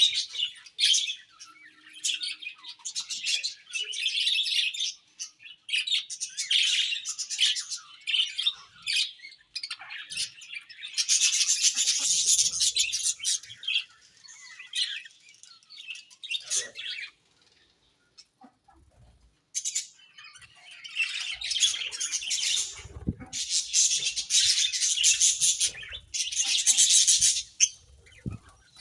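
A colony of budgerigars chirping and chattering in overlapping bursts, with a brief lull a little over halfway through.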